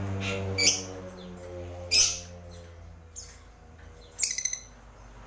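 Small caged bird chirping: two loud sharp chirps about a second and two seconds in, then a quick rattling run of chirps near the end. A low steady hum fades away in the first half.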